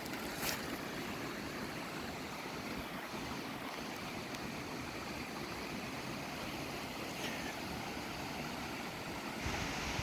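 Steady rushing of water from the waterfall and creek below, heard from high on the ridge, with a slight rise in level near the end.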